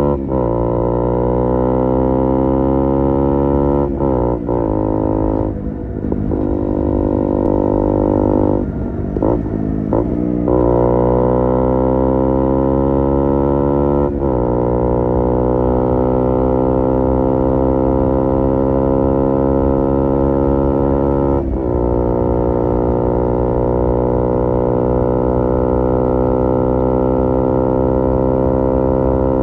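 KTM Duke 125's single-cylinder four-stroke engine through an Ixil Ixrace MK2 aftermarket exhaust, ridden under acceleration: the pitch climbs, drops at each gear change, and climbs again. Gear changes come about 4, 14 and 21 seconds in, with a few throttle drops in between, and it settles to a fairly steady pitch for the last several seconds.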